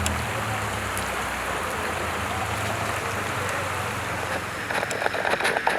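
Floodwater rushing along a street, a steady hiss of moving water, with a low engine hum fading early on. Near the end, short choppy splashing sounds come in quick succession.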